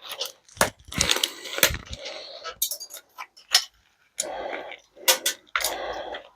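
Irregular sharp clicks and knocks, with bouts of scraping, as a relay's casing is pried and broken open to get at its contacts.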